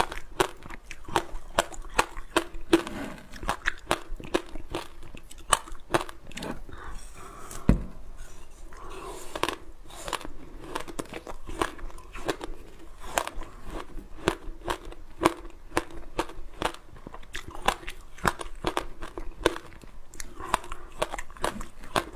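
Close-miked biting and chewing of frozen passion fruit: irregular crisp crunches and crackles, a few per second throughout, with one heavier low knock about eight seconds in.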